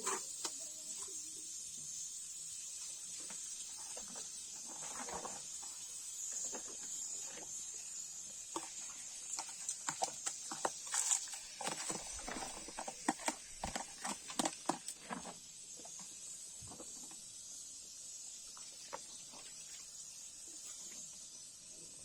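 Irregular clicks and knocks, thickest in the middle stretch and thinning out after about two thirds of the way, over a steady high hiss.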